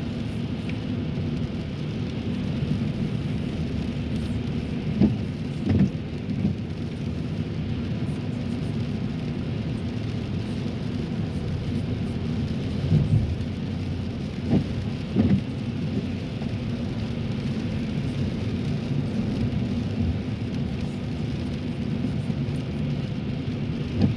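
Steady low road rumble and tyre noise inside a moving car on a wet road, with a few brief thumps scattered through.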